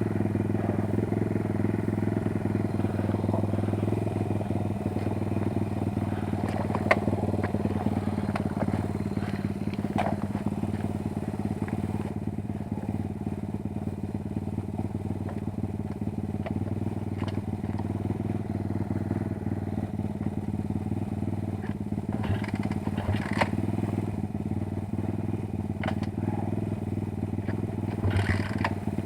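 Kayo 140 pit bike's single-cylinder four-stroke engine running at a steady, unchanging low speed, with a few scattered clicks and clatters over it.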